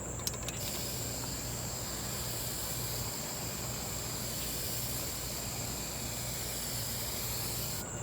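Aerosol can of appliance spray paint spraying: one long, steady hiss for about seven seconds, starting just after a few light clicks and cutting off shortly before the end.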